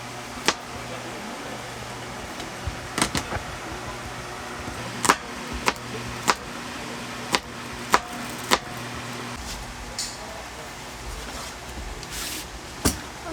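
Scattered sharp clinks and taps of cooking utensils and cookware while preparing food, about a dozen at irregular intervals, over a faint steady background.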